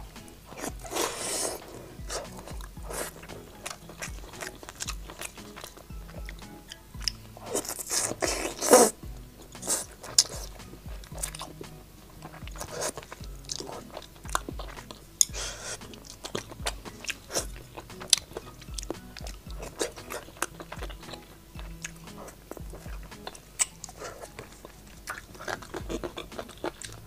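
Close-up biting and chewing of spicy braised chicken and crunchy cartilage, with wet mouth sounds and many sharp crunches. There are louder crunching bursts about a second in and again around eight to nine seconds in.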